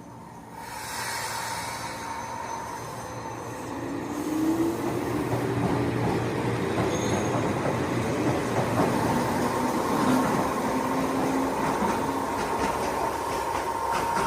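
Toyama Chiho Railway electric train running on its line, getting louder about half a second in and again around four seconds. A motor whine rises in pitch over a steady rumble, with a steady high tone and wheels clicking over the rails.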